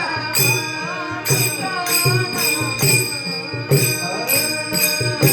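Marathi Varkari devotional bhajan: a singing voice over small hand cymbals (taal) struck in a steady beat, their ringing carrying between strikes, with a drum thumping on the beats.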